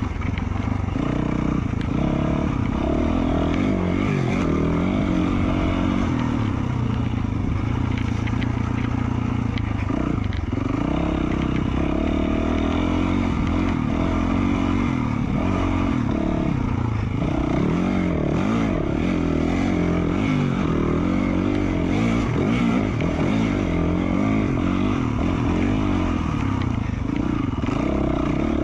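2020 Yamaha YZ450F's single-cylinder four-stroke engine running through an FMF Q4 slip-on exhaust while the bike is ridden, the revs rising and falling over and over as the rider works the throttle.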